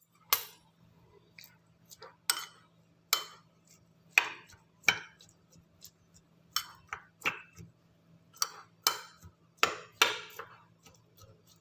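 A kitchen utensil knocking and clinking against a dish: a string of sharp knocks at irregular intervals, each with a short ring.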